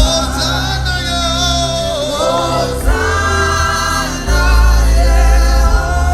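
Live gospel worship music: a group of voices singing over a deep bass line, growing louder about four seconds in.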